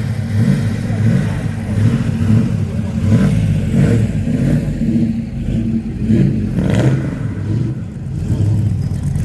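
A car engine running with a deep, low rumble, its revs rising and falling, with a few brief louder surges.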